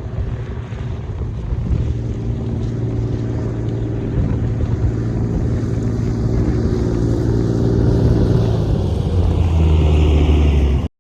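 Farm tractor engine running steadily under load while pulling a stalk chopper through the field, growing gradually louder before cutting off abruptly near the end.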